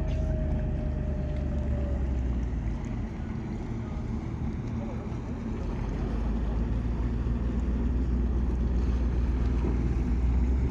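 Low, steady rumble of a passenger boat's engine at a landing stage, easing off about three seconds in and building up again a few seconds later, with wind buffeting the microphone.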